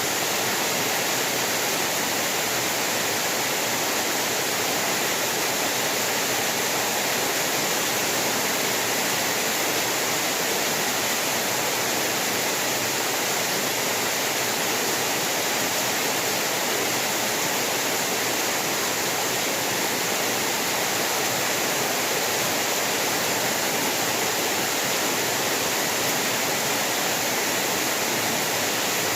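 Heavy rain falling steadily in an even, unbroken wash of noise.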